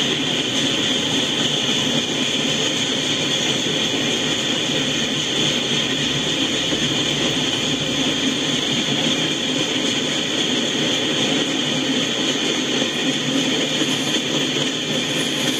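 Freight train cars rolling past, a steady noise of steel wheels on the rails as tank cars and then hopper cars go by.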